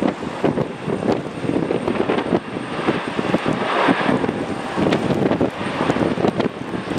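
Jet airliner's engines on a landing approach, swelling about halfway through, under rough, gusting wind buffeting the microphone.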